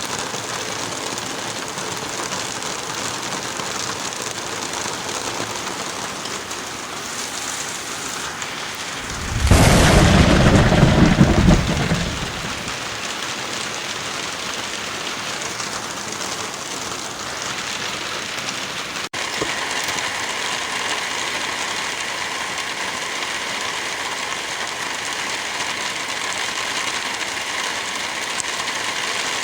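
Steady heavy rain, with a loud low thunderclap about ten seconds in that lasts a couple of seconds. Near the two-thirds mark the rain briefly cuts out and comes back with a slightly different sound.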